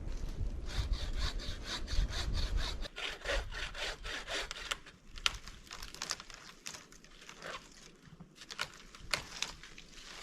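A hand saw cutting wood: quick, even strokes at first, then slower, uneven strokes with sharp cracks from about three seconds in.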